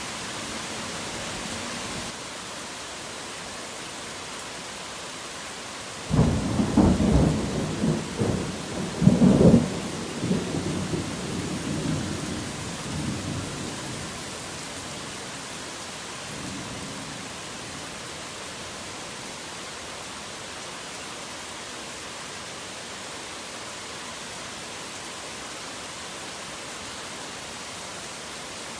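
Steady heavy rain with a thunderclap: about six seconds in a sudden crack and deep rumble break out, swell to a second loud peak a few seconds later, then roll away over several seconds, with a faint further rumble shortly after.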